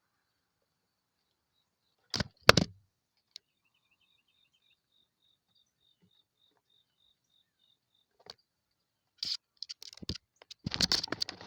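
Two sharp knocks, then a faint, high call repeated about three times a second for several seconds, likely a small bird. Near the end comes a flurry of clicking and scratching.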